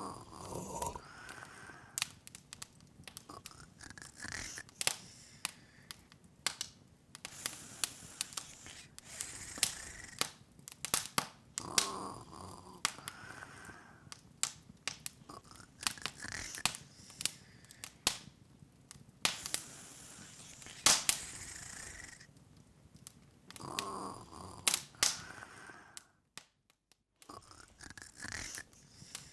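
Open wood fire crackling: irregular sharp snaps and pops over a soft hiss. A soft breathy sound, rising in pitch, comes back about every twelve seconds, and the sound cuts out for about a second near the end.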